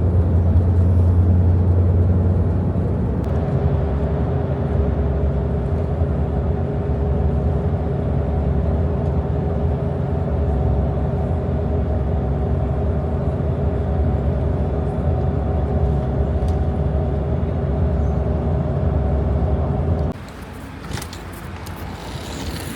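Airport coach running on the road, heard from inside: a steady low engine drone with road rumble. Near the end it drops suddenly to a quieter rumble.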